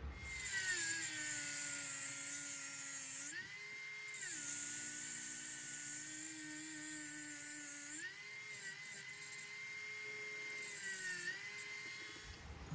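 Small high-speed rotary tool running, its whine dropping in pitch while it is held against the work and a hiss of grinding or polishing comes in. It rises back to full speed briefly about three and a half seconds in and again near the end, then stops.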